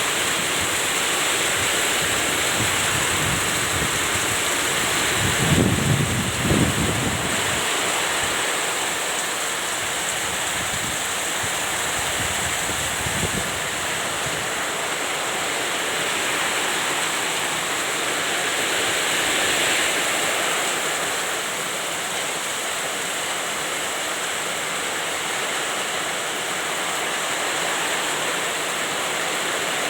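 Heavy rain and wind, a steady rushing hiss, with a brief low rumble about six seconds in.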